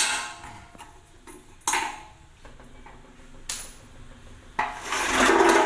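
Hammer tapping on the inner race of a cut, rusted, worn-out washing machine drum bearing to knock it off the drum spider's shaft: sharp metallic clinks about every second and a half, then a louder, longer ringing clatter near the end.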